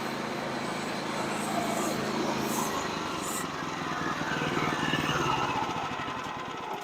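Small gasoline engine of a portable bandsaw mill running steadily, a little louder about two-thirds of the way through, then easing off near the end.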